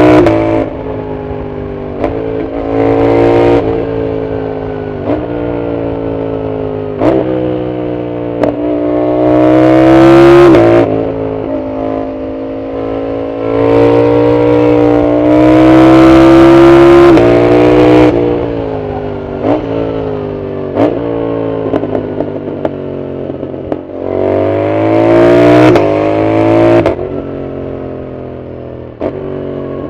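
Yamaha MT-07's 689 cc CP2 parallel-twin engine on a full exhaust, pulling hard up through the gears and rolling off again, over and over. Its pitch climbs, breaks briefly and drops at each gear change. It is loudest in three full-throttle pulls, about a third of the way in, halfway, and again near the end.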